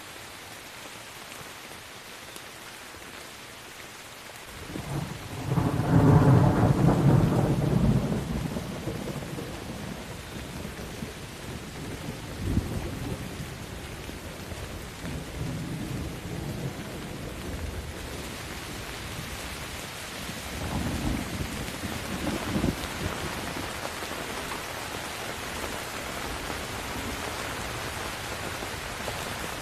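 Steady rain with a long roll of thunder that sets in about five seconds in and is loudest for the next few seconds. Lighter rumbles roll on after it, and the rain gets heavier in the second half.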